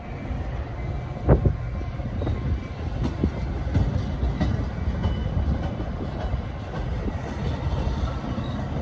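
Metra bilevel commuter coaches rolling past as the train pulls out: a steady low rumble of steel wheels on rail, with one sharp clank about a second in and a few lighter clicks of wheels over rail joints after it.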